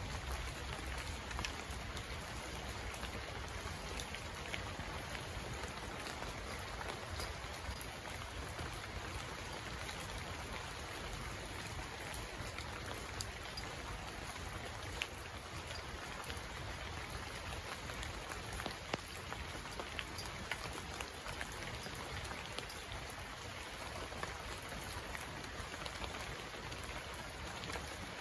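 Steady rainfall, an even hiss with many separate drops ticking close by.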